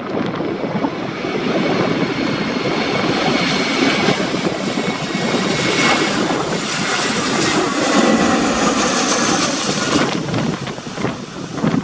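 Jet airliner's engines passing with a rising rumble and a faint high whine, loudest for a few seconds past the middle, then fading near the end. Strong wind buffets the microphone throughout.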